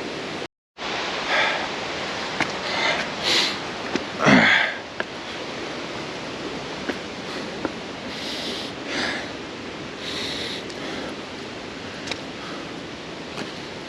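A hiker's heavy breathing on a steep scramble: short breathy puffs every second or two, with one voiced grunt-like exhale falling in pitch about four seconds in, over a steady rushing noise.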